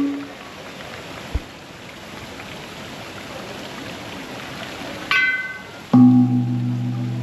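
Bell- or chime-like music tones over a steady rush of falling water: a high ringing note about five seconds in, then a deep, resonant bell tone near the end that rings for about two seconds.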